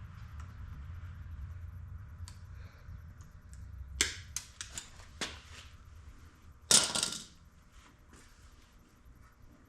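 A few sharp knocks and clinks of hard objects, then a louder clatter lasting about half a second, over a low steady hum.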